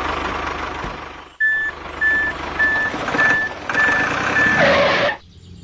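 Vehicle engine running, briefly cut, then a reversing alarm beeping six times at an even pace over the engine noise; all of it stops abruptly near the end.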